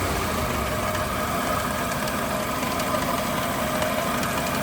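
Chevrolet Aveo engine idling with the air conditioning on, with a metallic ringing knock from the accessory drive-belt tensioner pulley. The tensioner is jerking and knocking, a sign of a worn tensioner assembly; the noise is heard only at idle with the AC on.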